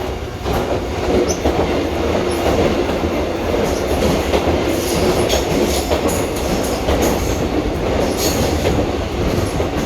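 Melbourne suburban electric train running along the platform close by: a loud, steady rumble of wheels and motors, with rapid clicks of the wheels going over rail joints.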